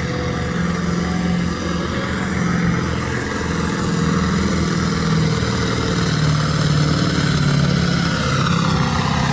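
Competition pulling tractor's engine running hard under load, a steady loud drone as it drags the weight sled down the track.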